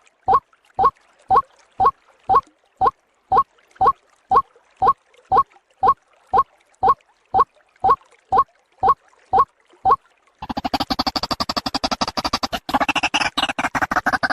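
White-breasted waterhen (ruak-ruak) lure call: a steady series of short, slightly falling single notes, about two a second. About ten seconds in it breaks into a dense, rapid chattering chorus.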